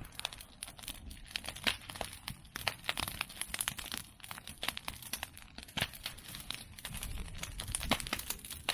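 Open bonfire of medake bamboo and chestnut prunings crackling: a dense, irregular run of sharp snaps and pops as the wood and bamboo burn.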